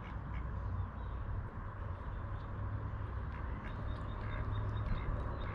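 Ducks quacking softly over a steady low rumble.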